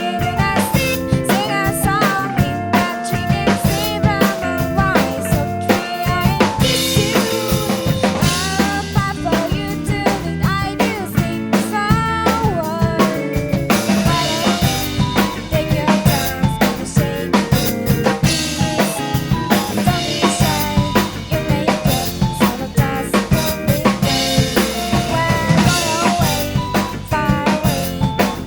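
Acoustic drum kit played along to a Shibuya-kei pop recording: kick, snare and rimshots over the full backing track, with stretches of ringing cymbals.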